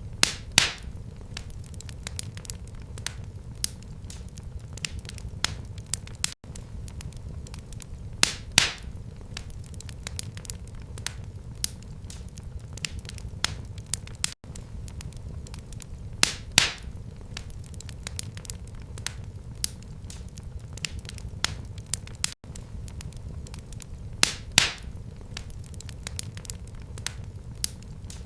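Wood fire burning in a fireplace: a steady low rumble under constant small crackles, with a louder pair of sharp pops about every eight seconds.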